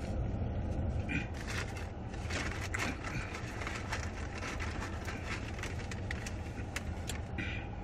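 Wet chewing of a steak sandwich, with many small crackly mouth clicks, over the steady low hum of a car idling.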